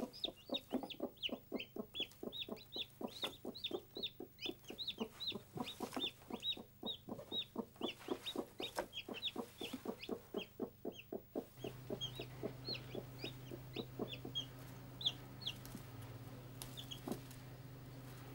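Newly hatched chicks peeping with high, short cheeps under a broody hen, who keeps up a run of soft clucks, about three or four a second. About two-thirds of the way through the clucking stops, and only scattered peeps remain over a steady low hum.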